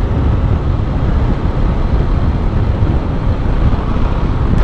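Motorcycle being ridden on the road: steady wind rushing over the microphone over the bike's running and road noise.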